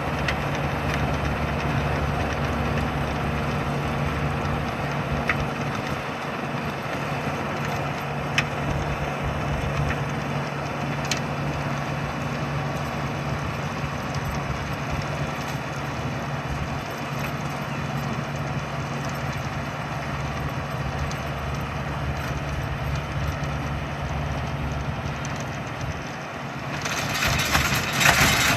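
Tractor engine running steadily during tilling, with a few sharp clicks. Near the end the sound grows louder and harsher.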